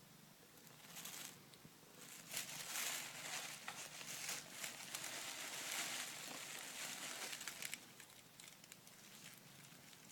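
A kitten scrabbling and scratching on a cardboard box, giving a dense crinkly, scratchy rustle with many small clicks. It starts faintly about a second in, is strongest from about two seconds in, and stops near the end.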